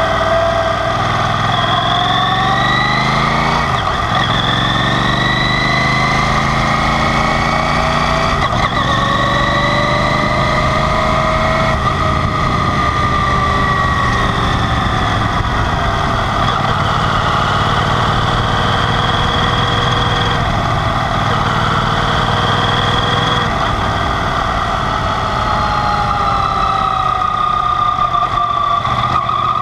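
Yamaha TDM 850 parallel-twin engine under way, its note climbing and dropping sharply at each gear change over the first twelve seconds, then easing off and picking up again near the end. A steady rush of wind runs underneath.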